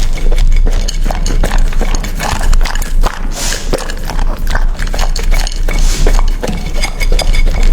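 A dog eating from a bowl of kibble and mixed food, close-miked: rapid, irregular crunching and chewing with wet smacking.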